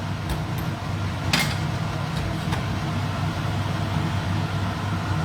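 Scallion omelette frying in a preheated wok on the stove: a steady low rumble under a faint hiss, with a brief clatter about one and a half seconds in.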